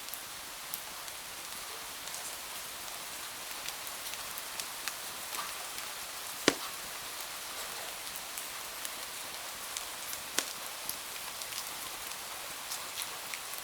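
Steady rain on window glass with the crackle of a wood fire: scattered sharp pops and ticks over a constant hiss, with one loud crack about six and a half seconds in and another near ten seconds.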